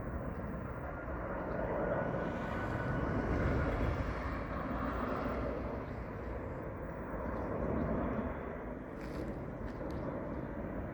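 Qantas jet airliner on approach: a steady rumble of jet engine noise, with a faint high whine in the first few seconds.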